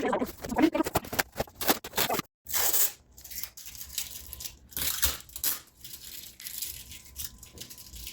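Packaging rustling and crinkling in a series of short bursts as it is handled.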